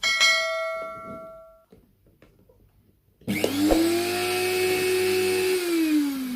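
A sharp metallic clang that rings and dies away over about a second and a half. Then, about three seconds in, the Moulinex blender's motor is switched on, runs up quickly to a steady whine, and begins to spin down near the end once switched off; it runs smoothly, its vibration from an unbalanced part now cured.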